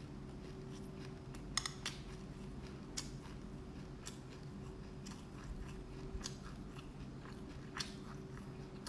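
Black sesame seeds being chewed close to the microphone: irregular sharp crunches and crackles, a couple of them standing out louder, over a steady low hum.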